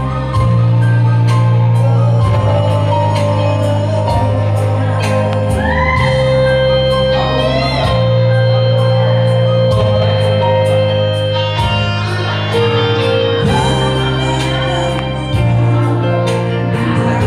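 Live band music with a steady drum beat and a bass line that changes note every couple of seconds; a voice or lead line glides briefly a few seconds in.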